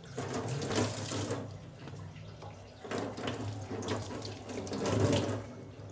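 Running water splashing in two spells, a short one at the start and a longer one from about three seconds in, as when a water stone is wetted before use.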